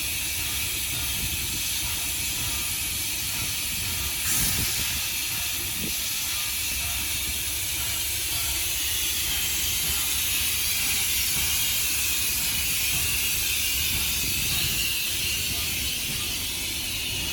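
Steam locomotive, a Caledonian Railway 0-4-4T tank engine, giving off a steady hiss of steam over a low rumble, with one brief knock about four seconds in.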